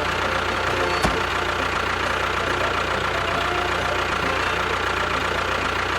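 Small motor running steadily, with a single click about a second in.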